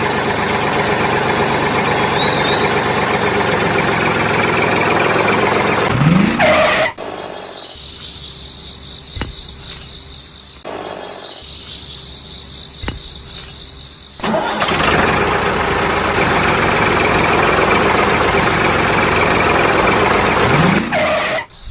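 A small engine running steadily. It drops to a much quieter stretch a few seconds in, comes back, and cuts off suddenly at the end.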